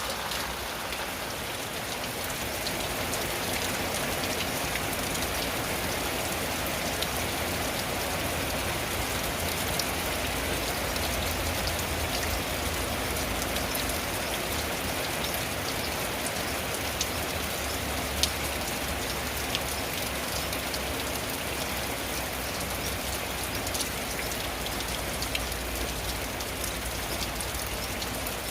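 Steady rain falling on a tin roof: a dense, even hiss with many small drop ticks scattered through it and an occasional sharper, louder tick.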